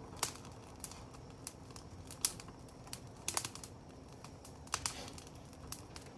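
Wood fire crackling: irregular sharp pops and snaps over a low steady hiss, the loudest snap about two seconds in and a quick cluster a little later.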